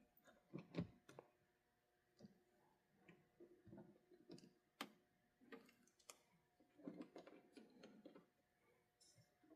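Faint, irregular small clicks and taps of an HO scale model locomotive being handled and set onto the track, over near-silent room tone.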